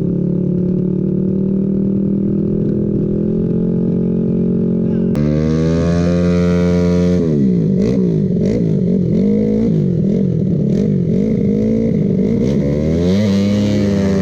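Motorcycle engine running at a steady pitch. After an abrupt cut about five seconds in, it is revved up and down over and over in quick throttle blips.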